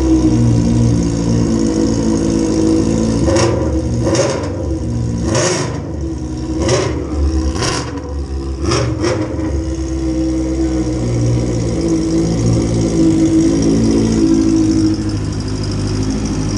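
Honda CB650F inline-four with an Akrapovic muffler, idling with about seven short throttle blips between about 3 and 9 seconds in, then idling steadily.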